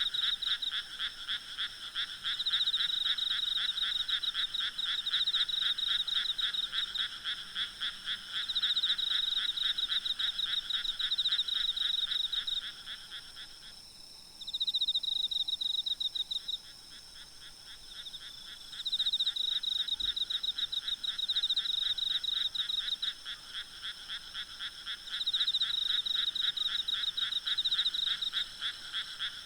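Chorus of frogs calling in rapid pulsed trills, with part of the chorus falling silent for a few seconds about halfway through before starting up again. Insects make a steady high buzz underneath.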